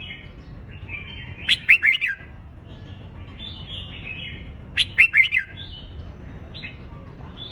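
Red-whiskered bulbuls giving their competitive fighting song: two loud bursts of quick, sharp falling notes, one about a second and a half in and one about five seconds in, with softer warbling chatter between them.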